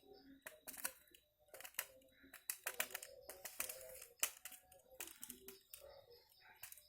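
Irregular light clicks and taps, several a second, with a faint steady high tone behind them.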